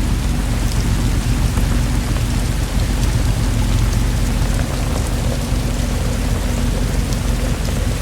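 Steady rainfall, with a deep low rumble of distant thunder underneath that eases a little about halfway through.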